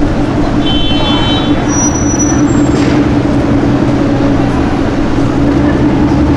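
Aston Martin Vanquish Zagato Shooting Brake's V12 idling steadily in slow street traffic, with no revving.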